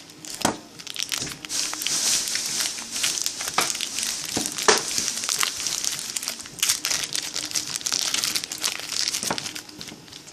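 Continuous crinkling and rustling of a crumpled material such as plastic or paper, with scattered sharp clicks and knocks.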